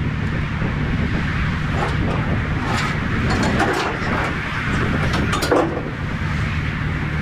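A truck engine running steadily with a low hum, with a few light clicks and rattles about halfway through.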